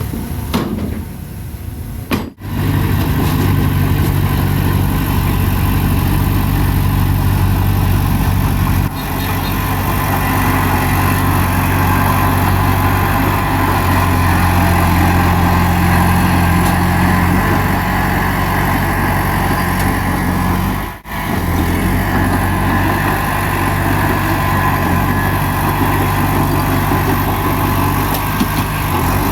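Bulldozer's diesel engine running steadily with a deep hum, breaking off briefly about two seconds in and again about twenty seconds in.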